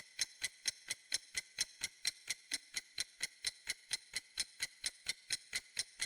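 Clock-like ticking sound effect, about four even, sharp ticks a second, as a quiz countdown timer running out.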